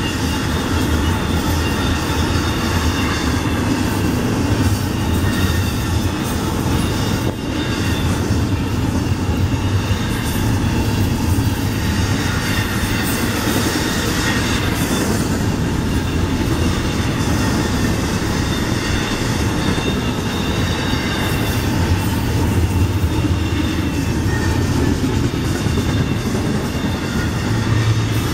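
Intermodal freight train of double-stack well cars rolling steadily past, wheels rumbling on the rails, with a faint high squeal from the wheels.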